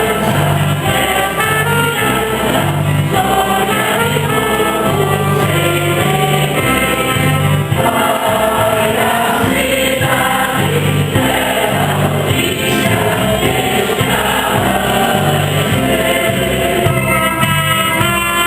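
A church singing group singing a Mass hymn in chorus, with instrumental accompaniment and a steady, pulsing bass line.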